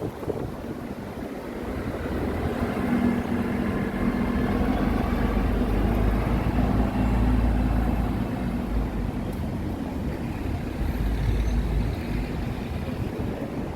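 A large road vehicle's engine running as it passes close by: a low steady hum that swells, holds for several seconds and fades near the end.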